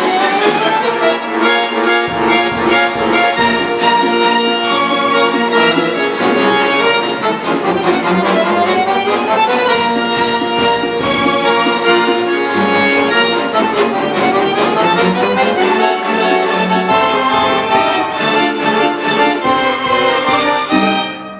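Concert accordion playing quick rising and falling runs, with a chamber orchestra accompanying.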